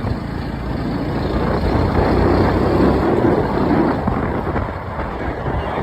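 Motorcycle running on the move, its engine mixed with wind rushing over the microphone, swelling louder about two to three and a half seconds in and then easing.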